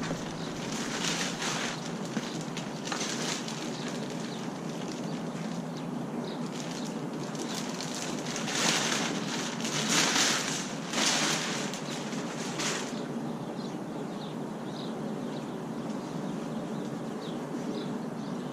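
Rain falling steadily, with a few loud rustling bursts about eight to thirteen seconds in as the packaging and part are handled. Faint high chirps near the end.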